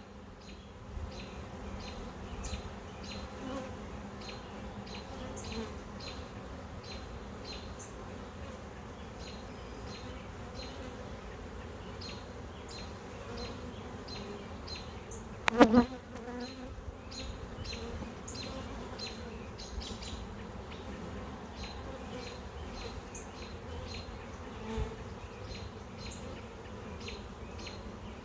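Honey bees buzzing steadily around an open hive, with many small clicks throughout and one brief louder buzz just past halfway.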